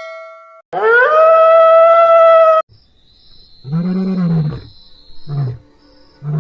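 A loud, trumpet-like call lasting about two seconds that rises in pitch at its start. It is followed by a lion roaring: one long, low roar, then shorter grunting roars. Behind the roars runs a steady high whine with regular pulses.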